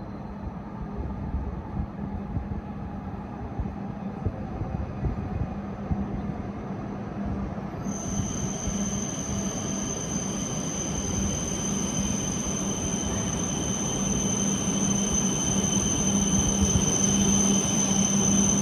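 Coupled E5 and E6 series Shinkansen train pulling into the platform, its running noise growing steadily louder. A high steady whine comes in sharply about eight seconds in and holds.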